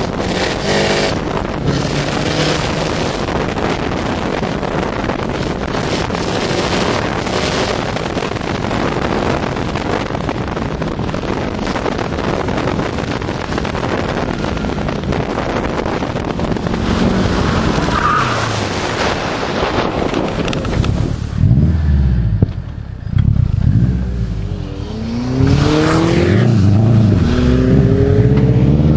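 A 2006 Subaru Impreza WRX STI driven hard, heard from outside the car: for most of the time a steady rush of wind and road noise covers the engine. About two-thirds of the way through, the turbocharged flat-four comes through plainly, revving up and dropping back through gear changes.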